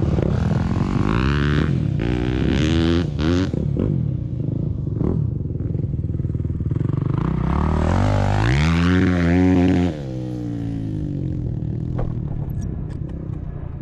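Dirt bike engine revving up and falling back again and again as it is ridden, with a long climb in revs near the end that cuts off sharply about ten seconds in, leaving the engine running lower and quieter.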